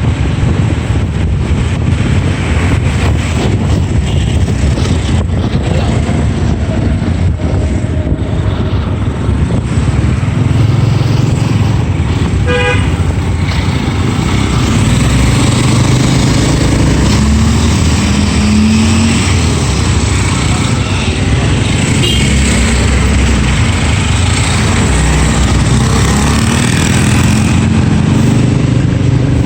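Motorbike ride through city traffic: the motorbike's engine running, wind buffeting the microphone and surrounding road traffic. A vehicle horn gives a short toot about a third of the way in.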